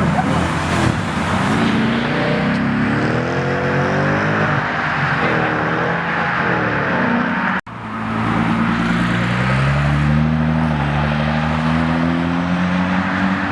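Car engine revving and accelerating, its pitch climbing and wavering. It breaks off abruptly about seven and a half seconds in, and another engine run starts and climbs steadily in pitch.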